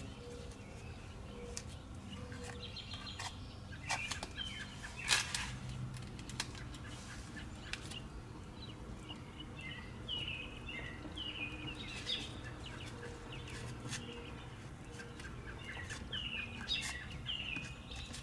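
Birds chirping in short, quick, falling chirps, in runs of several at a time, over a steady low hum, with a few sharp clicks.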